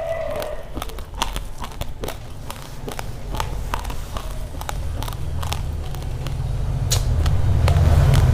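Raw rice grains crunching between the teeth, close to the microphone: irregular sharp crunches and clicks. A low rumble builds underneath in the last couple of seconds.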